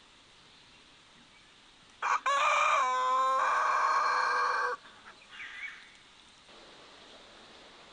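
A rooster crowing once, a single loud call lasting nearly three seconds.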